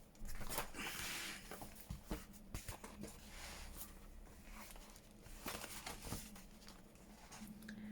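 Faint rustling of paper and card with scattered light taps and clicks as a handmade paper junk journal is handled.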